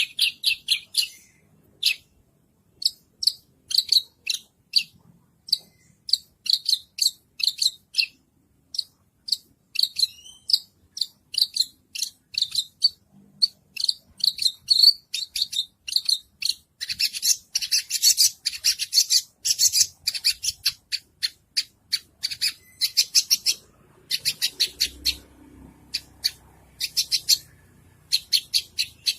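White-rumped shama singing a rapid, varied song of short sharp chips and trills in quick phrases broken by brief pauses, turning denser and busier about two-thirds of the way through.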